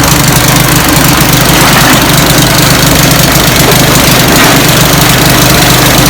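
Chaff cutter for chopping grass running with a loud, steady mechanical drone.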